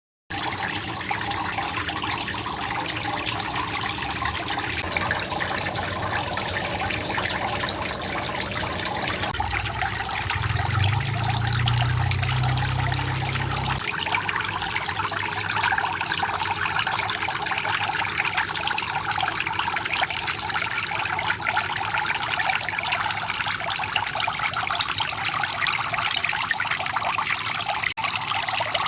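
Water trickling and splashing steadily from a homemade fountain outlet into a pond or tank. A low hum joins in for a few seconds around the middle.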